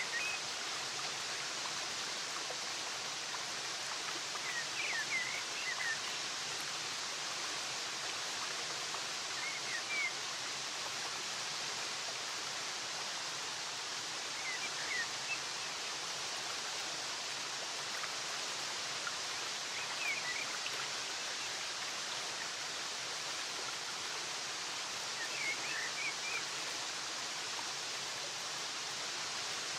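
Steady rush of flowing water, with a bird giving a short burst of high chirps about every five seconds.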